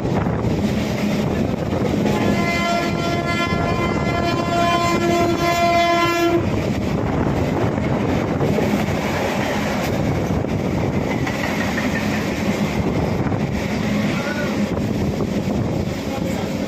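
Electric local train (EMU) running with a steady rumble of wheels on the track. A train horn sounds one held blast of about four seconds, starting about two seconds in.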